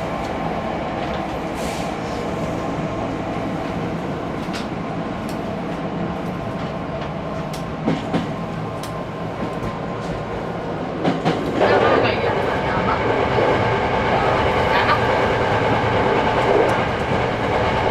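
Hankyu 6300 series electric train running, heard from on board, with wheels clicking over rail joints now and then. The running noise grows louder about twelve seconds in.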